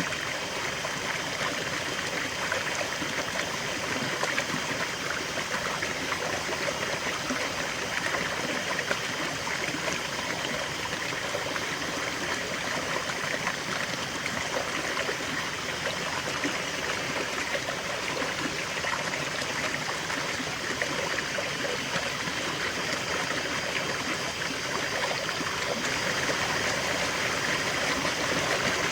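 River water flowing over stones, a steady rushing and bubbling that stays even throughout.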